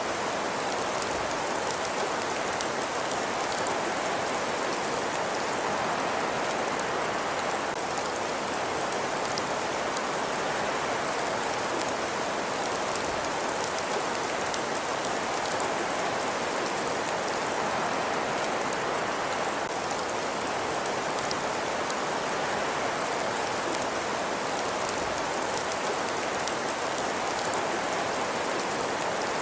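Steady ambience bed of a fireplace and winter night: an even hiss with a fine crackle or patter throughout.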